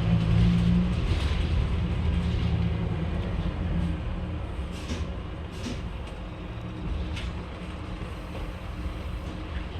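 Scania K310UB city bus's diesel engine running steadily, louder for the first four seconds and then dropping back to a quieter drone. A few sharp clicks come in the second half.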